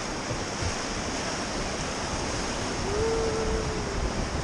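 River white water rushing steadily around a raft running rapids.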